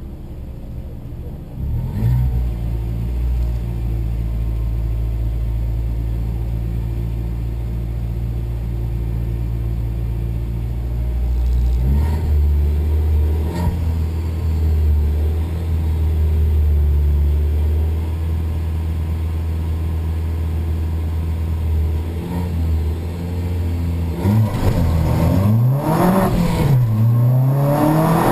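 Race car engine heard from inside the cabin, running at steady revs on the start line and stepping up in pitch twice. About 24 seconds in the car launches, the revs climbing hard and dropping back at quick gear changes.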